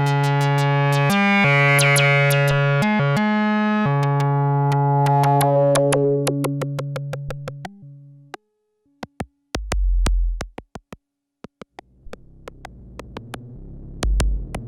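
Erica Synths Black System III modular synthesizer playing a sustained, buzzy pitched tone rich in overtones, its bass note shifting a few times before it fades out over several seconds, with sharp clicks ticking through it. After a short gap come deep bass pulses and a low hum that swells up near the end.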